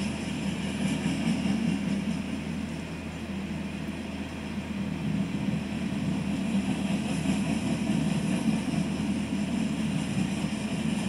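Union Pacific freight train's cars rolling past close by: the steady noise of steel wheels running on the rails.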